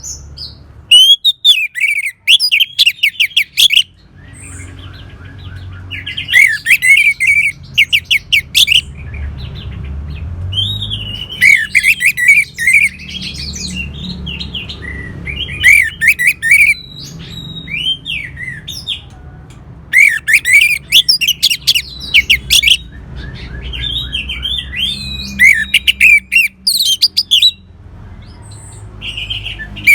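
Orange-headed thrush singing: loud phrases of rapid, sharp, varied notes, each lasting one to three seconds and repeated every few seconds, over a low steady rumble.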